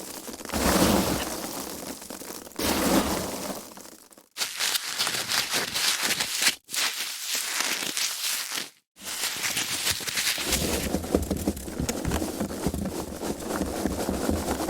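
Foam packaging being handled: squeaky, crackly rubbing and crushing in a run of bursts, with short pauses about four, six and a half, and nine seconds in.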